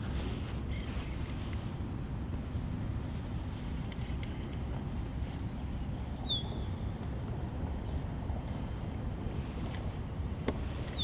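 Steady outdoor background noise with a constant high thin drone, typical of insects, and a short falling chirp about six seconds in and again near the end.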